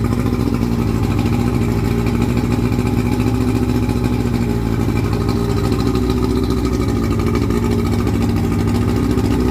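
1976 Evinrude 70 hp in-line three-cylinder two-stroke outboard motor running steadily at a constant speed.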